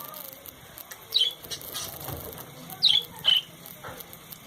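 Caged pet birds chirping: three short, high calls that slide downward, one about a second in and two close together near the three-second mark, over light clicks and rustling in the cage.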